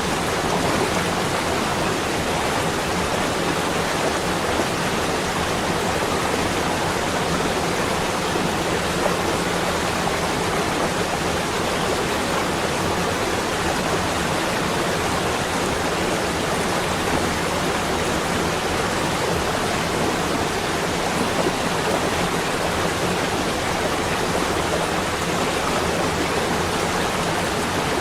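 Steady, even rushing noise that does not change or break.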